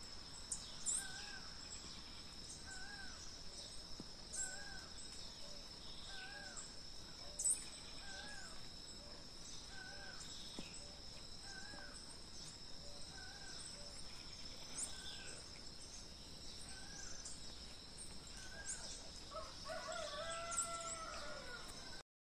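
Faint rural outdoor ambience. A bird repeats a short arched call about every 1.7 seconds, with scattered thin high chirps and a steady high-pitched whine underneath. Near the end a different, longer falling call comes in.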